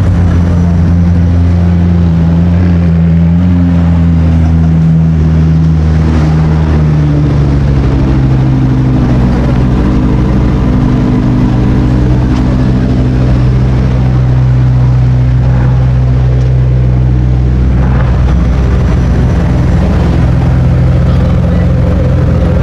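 Sports car engine running loud and steady at close range, with a deep note that eases a little lower about a third of the way in and then holds.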